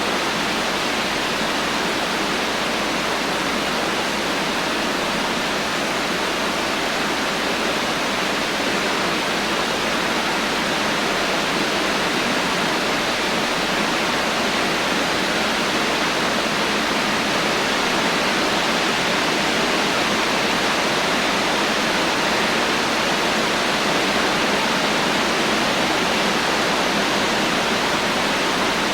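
Heavy rain falling: a steady, dense hiss of downpour with no thunder and no separate drops standing out.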